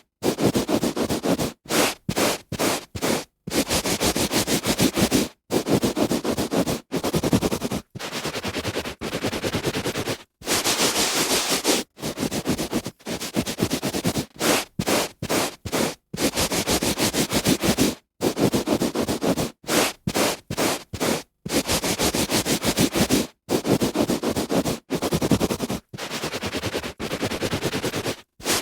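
A hand rubbing back and forth on a carpet, rough scratchy strokes of varying length with short pauses between them.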